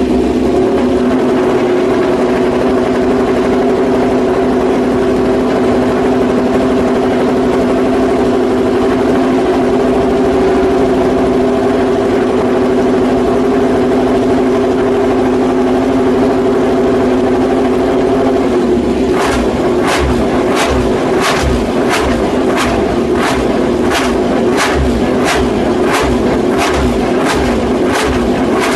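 Honda RC213V MotoGP bike's 1000cc V4 engine running loud at a steady, unchanging pitch. From about nineteen seconds in, the note turns rougher and sharp cracks come at a regular beat, roughly every half second or so.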